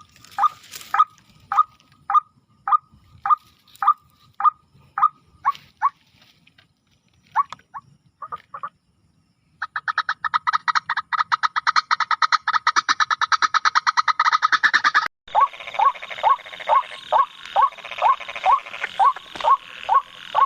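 White-breasted waterhen calls: repeated croaking notes about two a second, a short pause, then a fast run of notes for about five seconds. The sound cuts off abruptly and the slower calling resumes with a steady hiss behind it.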